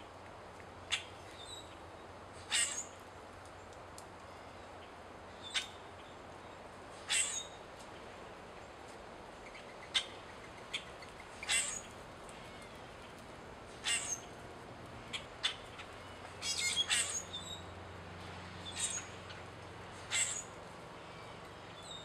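Short, sharp bird call notes, one every second or two, with a quick rattling run of notes about two-thirds of the way through.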